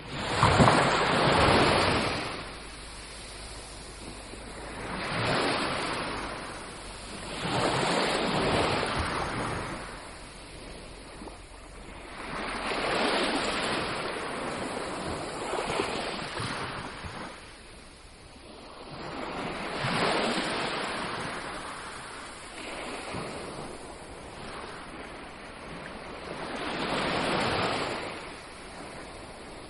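Ocean surf breaking and washing up on a beach, the waves swelling and fading about every four to seven seconds, the first one the loudest.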